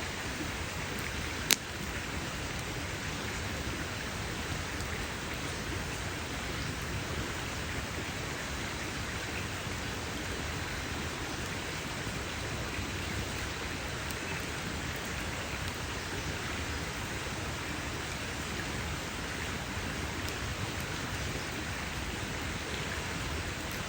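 Wood campfire burning with a steady hiss and small scattered crackles, and one sharp, loud pop about a second and a half in.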